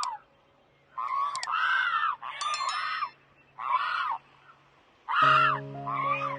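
An animal giving about seven short, harsh calls in irregular succession, each rising then falling in pitch. A steady low drone joins about five seconds in.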